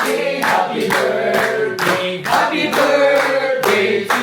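A group of people singing together while clapping along in a steady beat, about two to three claps a second.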